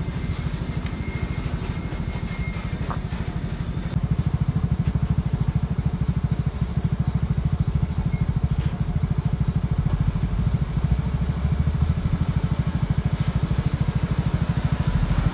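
Heavily loaded sand truck's diesel engine labouring uphill, a steady low rapid pulsing that grows louder about four seconds in.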